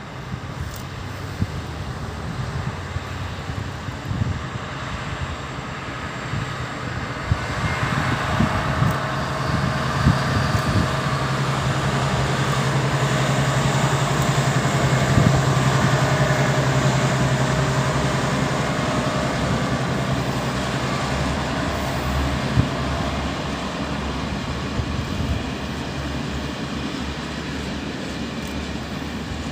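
6Dg diesel locomotive pulling away with a freight train of covered wagons. The engine's steady low drone swells to a peak around the middle and then fades, over the rumble and knocks of the wagons on the rails.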